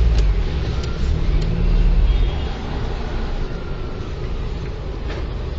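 Car engine running, its note rising and falling over the first two seconds or so, then settling into a steadier, quieter rumble.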